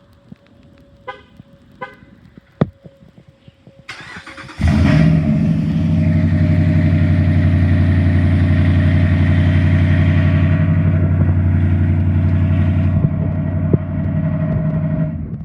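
Dodge Ram pickup with a custom exhaust cranking briefly about four seconds in, catching at once and then idling loud and deep and steady, until it stops just before the end. Before the start there are two short chirps and a sharp click.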